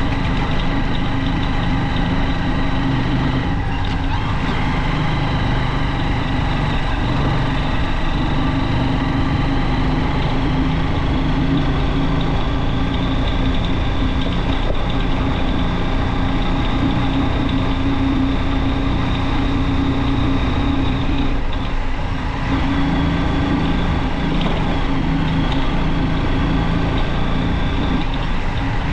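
Junak M12 motorcycle engine running steadily while riding, with a brief dip in the engine note about three-quarters of the way through.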